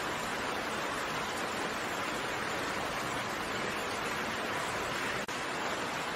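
Steady rain falling as an even hiss of raindrops, with a momentary drop in level about five seconds in.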